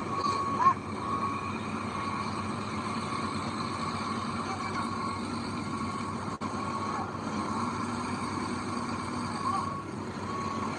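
Heavy construction machinery's diesel engine running steadily, with a reversing beeper's tone sounding over it. There is a brief sharp sound just under a second in.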